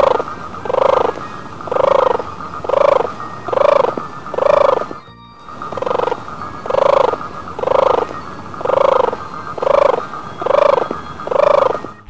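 An animal call repeated steadily about once a second, each call a short pitched note, with a brief break about five seconds in.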